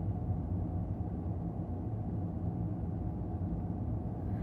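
Steady low rumble inside a moving car's cabin: engine and road noise while driving.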